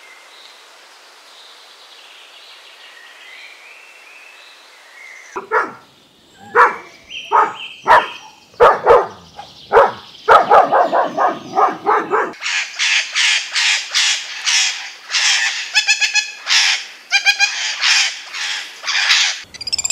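A dog barking repeatedly in a quick run of loud barks. Then, from a little past halfway, rainbow lorikeets give shrill screeching calls in rapid succession. Faint bird calls come before the barking.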